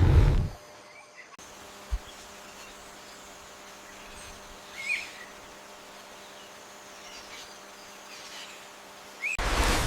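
Steady, quiet insect buzzing with a few short, high chirps. A loud, low sound cuts in near the end.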